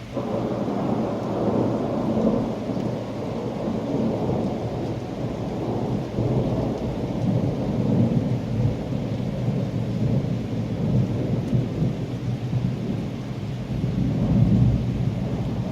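A long rolling thunder rumble over steady rain. It breaks in suddenly at the start, rolls on with uneven swells, and grows loudest again near the end.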